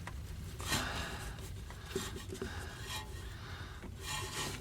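Rubbing and light scraping as the rubber boot is worked off a car's inner tie rod, with a few small knocks.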